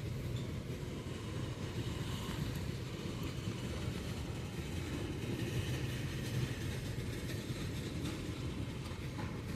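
CSX freight train rolling slowly through the crossing after a stop, its cars making a steady low rumble.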